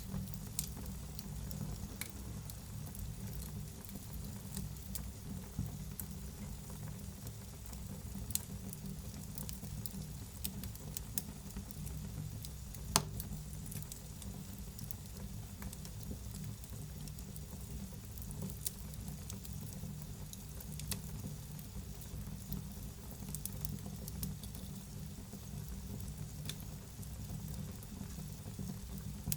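Wood fire burning in a fireplace, hissing and crackling under a low steady rumble, with frequent small pops and one sharp crack about halfway through.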